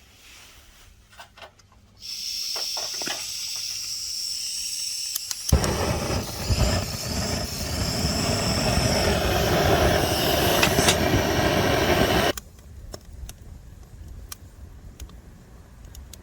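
Strong winter wind: a loud, rushing hiss that starts suddenly, joined about halfway by heavy, uneven gusts buffeting the microphone, both cutting off abruptly.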